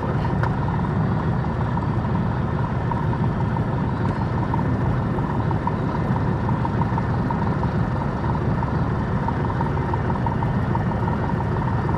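Piper Comanche 250's six-cylinder Lycoming engine running steadily at low power, heard from inside the cabin as an even drone.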